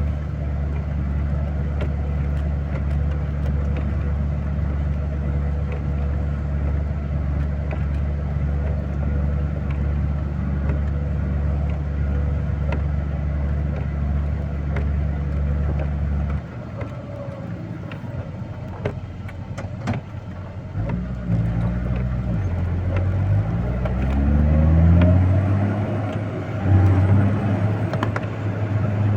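A heavy vehicle's engine running steadily. A little over halfway through it drops back, then it revs up several times in rising sweeps, as when accelerating through the gears.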